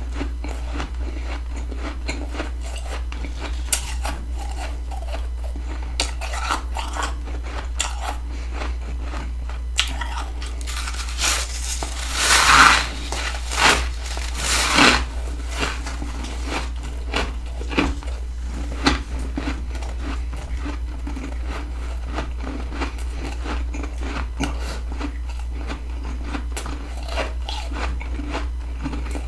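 Freezer frost being bitten and chewed close to the microphone: a steady run of small crunches, with a few louder crunching bites about twelve to fifteen seconds in.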